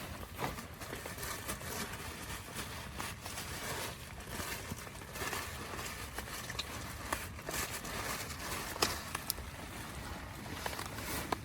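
Rain falling on a tent: a steady hiss with many separate drops tapping on the fabric at irregular times.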